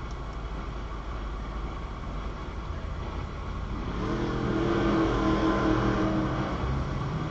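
Car engines idling with a low, steady rumble. About four seconds in, one engine's note grows louder, peaks and eases off near the end.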